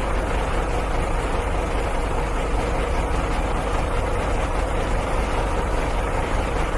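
A heavy engine running steadily, with a deep, even drone and no change in speed.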